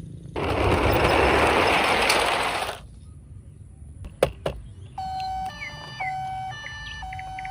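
A loud rushing noise for about two seconds, then two sharp clicks, then a toy vehicle's electronic sound chip starting a beeping tune of steady tones that step from pitch to pitch, about five seconds in.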